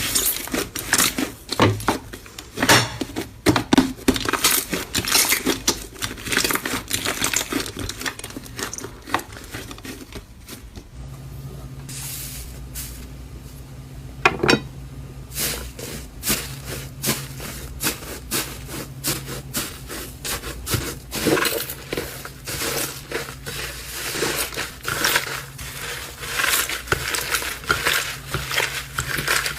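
Slime being pressed, poked and stretched by hand, giving rapid crackling clicks and pops. The clicks ease off for a few seconds in the middle, then pick up again.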